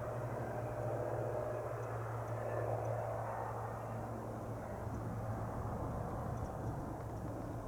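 Cirrus SR22T's turbocharged six-cylinder piston engine and propeller climbing out after takeoff: a steady low engine note that slowly fades as the plane pulls away.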